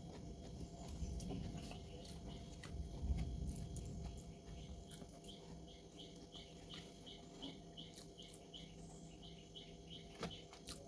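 Faint eating sounds: soft low chewing thumps and small mouth clicks. From about halfway on, a steady run of short, high chirps, several a second, sounds in the background.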